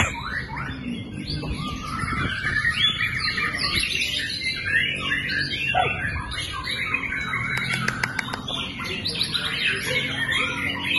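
White-rumped shama (murai batu) singing a dense, unbroken run of quick, varied chirps, whistles and trills, with a steady low rumble underneath.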